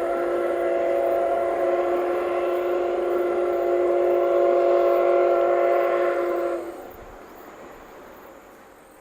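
Steam locomotive C57 180 sounding one long, steady blast on its steam whistle, a chord of several pitches held together, which cuts off about six and a half seconds in. Afterwards only a faint fading rumble remains.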